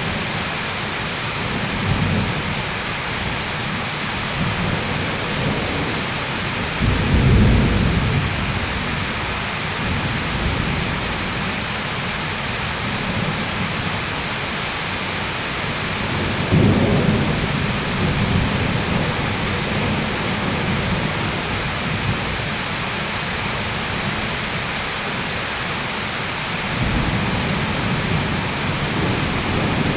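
Thunderstorm: steady heavy rain hiss with rolls of thunder, the loudest rumble about a quarter of the way in, another near the middle and a long low one starting near the end.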